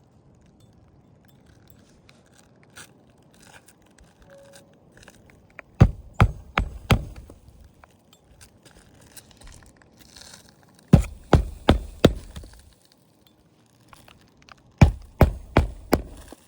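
Brittle asphalt shingles crackling and snapping as they are bent and lifted by hand, in three bursts of sharp cracks about six, eleven and fifteen seconds in. This is the sound of an extremely brittle roof shedding granules and cracking when worked.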